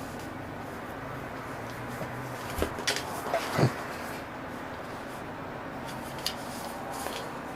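A kitten playing with an empty Chipstar chip tube, knocking and scraping it around: a short run of light knocks about a third of the way in, the loudest just before halfway, then a couple of faint ticks near the end, over a steady low hum.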